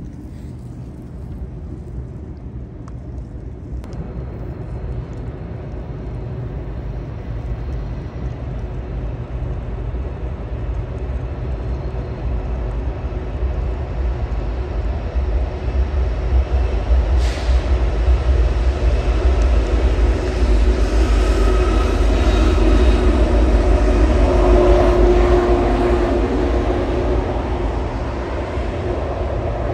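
A train passing: a low rumble that builds steadily, is loudest a little over twenty seconds in and eases slightly near the end, with thin high tones over it around the loudest part.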